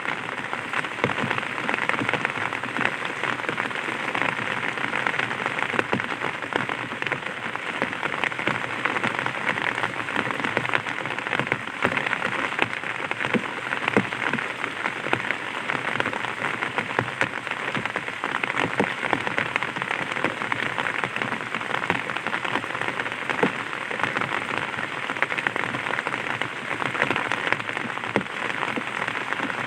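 Light rain pattering on an umbrella: a steady dense spray of small drop impacts.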